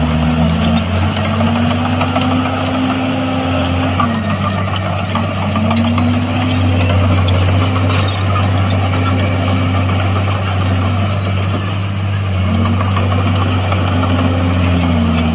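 Heavy diesel engine of a bulldozer running under load. It is a steady low drone whose pitch rises and falls every few seconds as the machine works.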